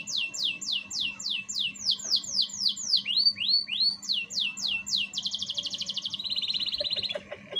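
Domestic canary singing: a run of repeated falling whistled notes about five a second, a few rising notes around three seconds in, then a faster run of notes and a rapid buzzy trill near the end.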